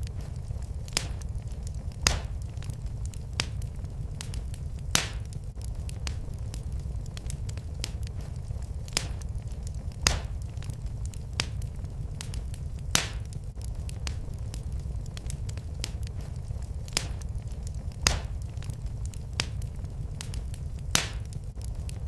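Wood fire in a fireplace crackling: sharp snaps and pops about once a second, with louder pops every few seconds, over a steady low rumble of the flames.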